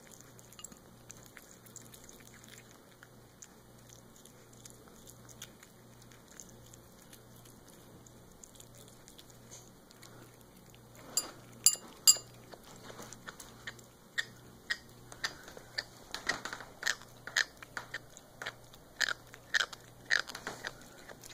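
A jaw clicking as it works, like chewing: faint clicks at first, then a few sharp, loud clicks about halfway through, followed by a steady run of clicks roughly every half second to a second.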